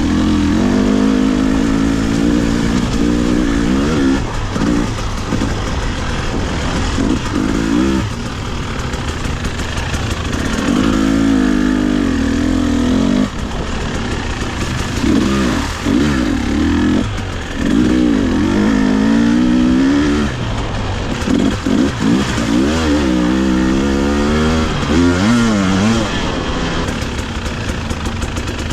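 Two-stroke enduro dirt bike engine revving up and down again and again while riding a technical trail, its pitch rising and falling every second or two with brief drops off the throttle.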